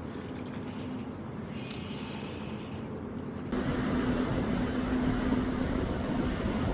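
Steady low engine hum over a wash of outdoor background noise, which gets abruptly louder and fuller about three and a half seconds in.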